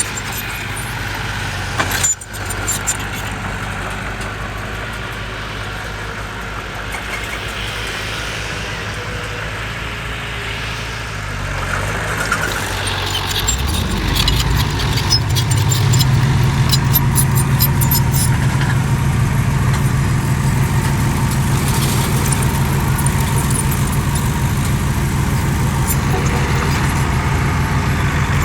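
Heavy diesel engine of earthmoving machinery running. It speeds up and gets louder about halfway through, then holds there as if under load, with a patch of rapid clanking about two-thirds of the way in.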